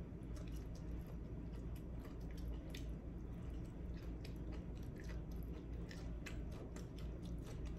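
A person chewing and biting cooked string beans close to the microphone, with a run of small irregular clicks and crunches.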